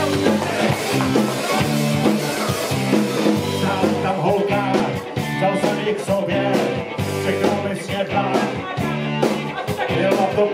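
Live rock band playing: electric guitars, bass and drums with a steady beat, recorded from the audience.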